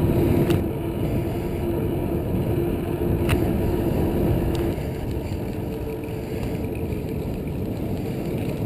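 Rumbling wind and riding noise picked up by an action camera on a moving mountain bike. A steady hum runs through the first half, and there are a few sharp clicks and rattles.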